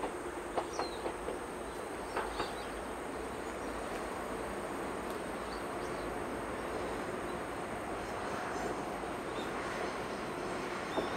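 A diesel-hauled train running along the line, heard as a steady rumble with a few sharp rail clicks in the first couple of seconds, growing slightly louder toward the end.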